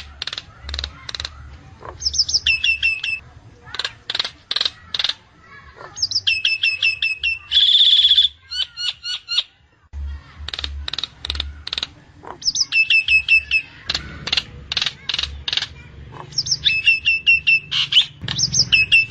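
Nias hill myna calling: sharp clicking notes and quick runs of whistles dropping in pitch, repeated in phrases every few seconds, with one loud harsh note about eight seconds in.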